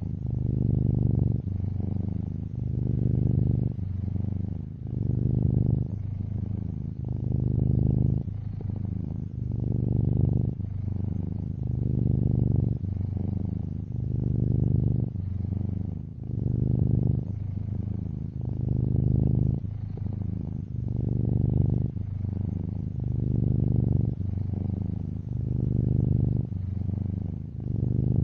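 Domestic cat purring close up: a steady low buzz that swells and eases in a slow regular rhythm as the cat breathes in and out, a louder phase about every two and a half seconds.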